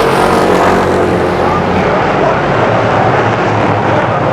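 Street stock race cars running together on a short oval, a loud steady drone of several engines at once.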